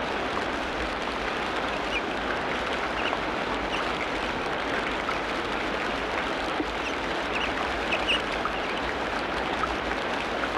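Tropical rainforest ambience: a steady, dense hiss of falling or running water, with scattered short high chirps from birds or insects, a few close together about eight seconds in.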